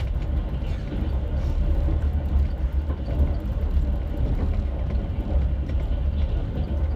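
Passenger train coach running on the rails, heard from inside the carriage: a steady low rumble with no distinct wheel clicks.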